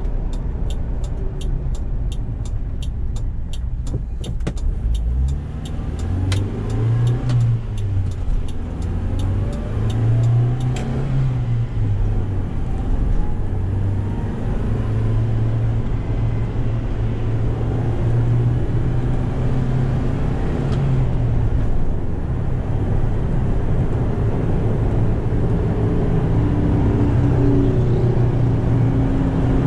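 Toyota 2Y 1.8-litre four-cylinder petrol engine of a 1988 Hiace truck, running low at first with a rapid, even ticking, then pulling away from about five seconds in, its note rising twice through the gears with shifts between, and then cruising at a steady pitch with a brief drop about two-thirds of the way through.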